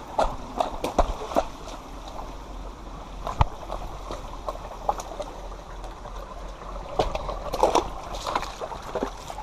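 Shallow creek water running over rocks, with scattered knocks and splashes of footsteps in the creek bed.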